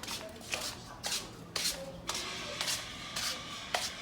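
Slippers scuffing and shuffling across the floor as someone walks, a soft swish with each step, about two steps a second.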